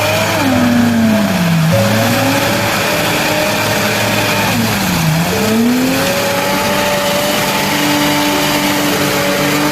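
A motor vehicle's engine revving, its pitch dipping and climbing back twice and then holding steadier, over a loud steady rushing noise.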